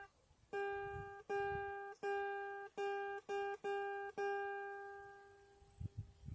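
Guitar with one note plucked over and over, about eight times at an uneven pace, each note ringing and fading; the last rings out longest. A few soft low thumps near the end.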